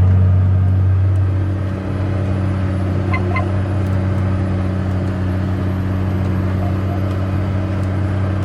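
Heavy diesel vehicle engine running steadily, a deep even drone that eases slightly about two seconds in.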